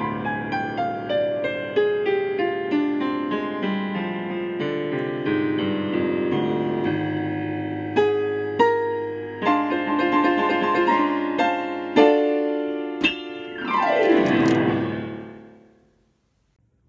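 Solo piano playing a flowing run of notes, ending with a fast downward glissando across the keys about fourteen seconds in, then fading out.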